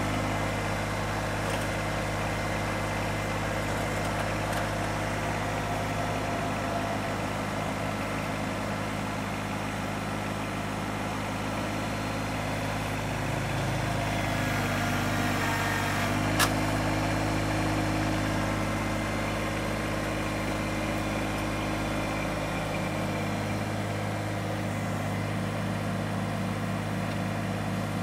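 Kubota BX compact tractor's three-cylinder diesel engine running steadily at idle. The engine note shifts for a few seconds around the middle, and there is a single sharp metallic click about 16 seconds in.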